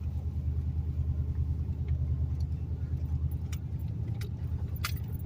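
1991 Chevy pickup's engine running steadily, a low pulsing rumble heard from inside the cab, with a few light clicks and jingles over it.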